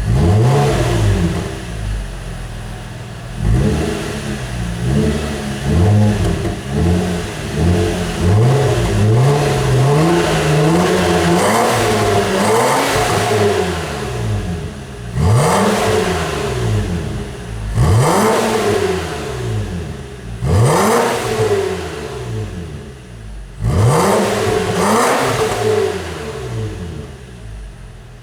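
Nissan Cefiro's 3.5-litre V6 revved through an aftermarket Tai-Rong sport rear muffler with dual exits. It gives a run of short throttle blips, then four sharper revs that climb quickly and fall back, and drops to a steady idle near the end.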